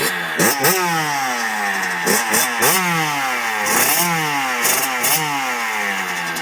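Kawasaki KX85 two-stroke dirt bike engine being revved: about eight quick throttle blips, each rising sharply in pitch and dropping back toward idle.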